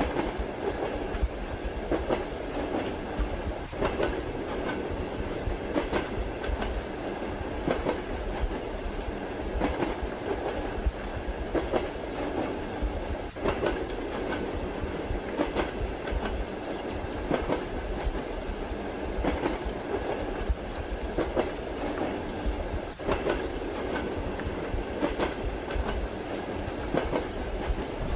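Train wheels clacking over rail joints in a regular rhythm, over a steady rolling rumble, as heard from inside a passenger carriage compartment.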